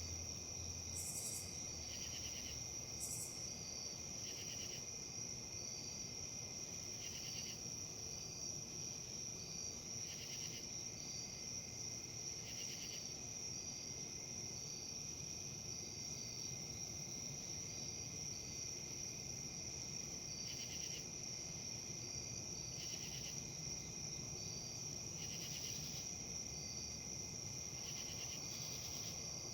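Insect chorus: a continuous high-pitched trill, with shorter chirps repeating every two or three seconds, over a soft even hiss of wind in leaves.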